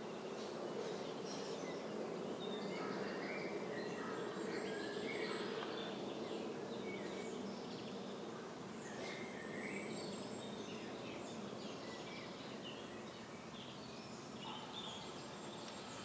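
Steady outdoor background noise with scattered short bird chirps coming and going.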